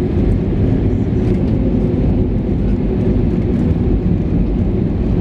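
Steady low rumble of an Airbus A320neo with CFM LEAP-1A engines, heard from inside the passenger cabin.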